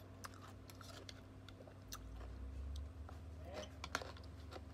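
Close-up chewing of crisp raw cucumber slices dressed in vinegar, faint wet crunches with a few short sharp clicks spread through.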